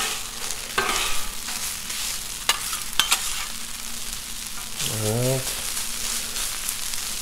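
Shredded hash browns sizzling in butter and oil on a Blackstone griddle's steel top, while two metal spatulas scrape through them and mix them. Two sharp spatula clicks on the steel come near the middle.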